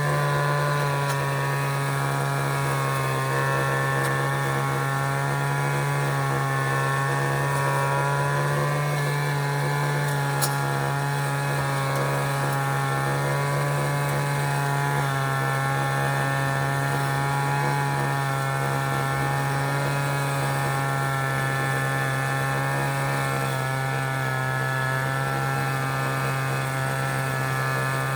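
City traffic ambience dominated by a steady low engine hum with many overtones, with one short click about ten seconds in.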